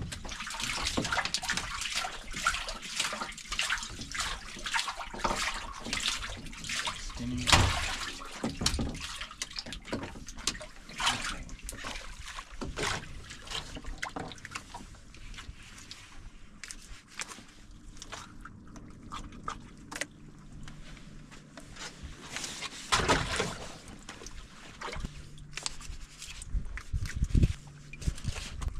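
Water splashing and sloshing on a fishing boat, with irregular clicks and knocks; a faint steady hum comes in about halfway through.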